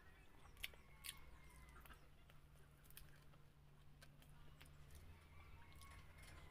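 Faint close-up chewing with light mouth clicks from a person eating by hand, over a steady low hum.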